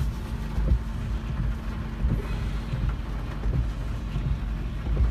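Rain on a car, heard from inside the cabin, over a low steady hum and irregular low rumbling.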